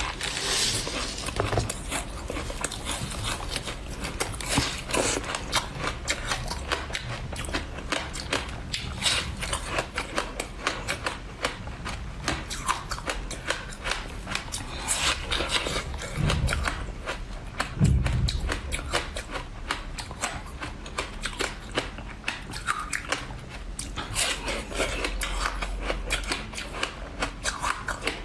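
Close-miked eating sounds: a person chewing and biting food, a steady dense run of wet mouth clicks and crackles, with a couple of heavier low bites about two-thirds of the way through.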